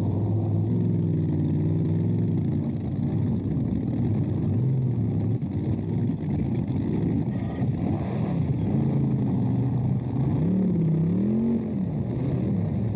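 Drag boat engines running near idle, several at once, one holding a steady note while others rise and fall as the throttle is blipped.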